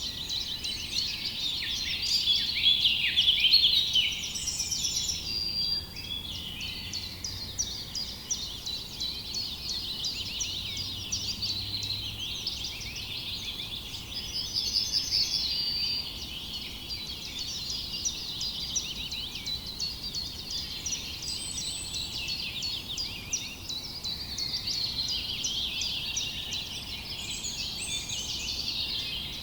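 A chorus of many small songbirds chirping continuously in rapid, overlapping calls, with a few short trills mixed in.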